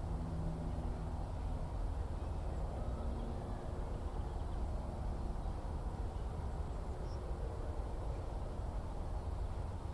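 Steady low rumble of distant engine noise, with a pitched hum that fades away over the first couple of seconds and comes back faintly near the end; a single faint high chirp about seven seconds in.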